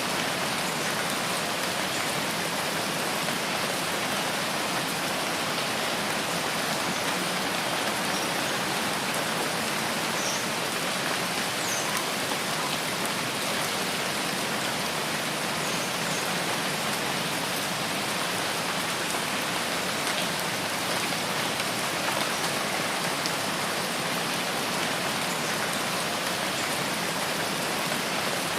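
Steady, even rainfall in a rainforest, a continuous hiss of rain on surfaces. A few faint, short high chirps come through about ten to twelve seconds in.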